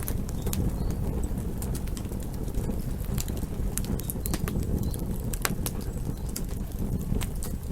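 Campfire burning: a steady low rumble from the flames, with frequent, irregular sharp crackles and pops from the burning wood.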